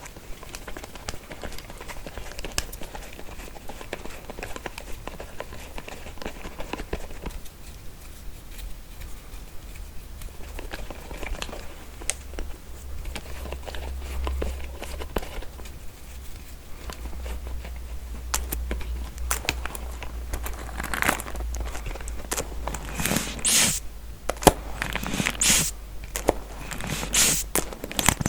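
Combs handled close to the microphone: the teeth scratched and tapped in a run of small clicks and crackles, turning into louder sweeping strokes over the last several seconds.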